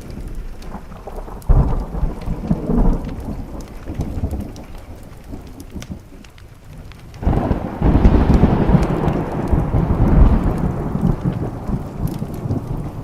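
Thunderstorm: steady rain on a window with two rolls of thunder. A shorter rumble comes about a second and a half in, and a longer, louder roll starts around seven seconds and fades out near the end.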